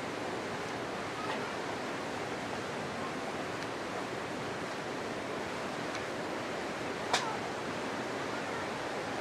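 Steady rushing of a mountain stream, with a few sharp clicks, the loudest about seven seconds in.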